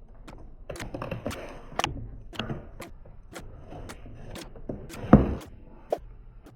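A run of irregular sharp clicks and knocks with some clatter between them, and one louder knock about five seconds in.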